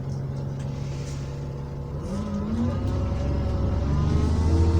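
Alexander Dennis Enviro400 double-decker bus engine idling with a steady low hum, then about two seconds in revving up and rising in pitch as the bus accelerates, heard from inside the bus.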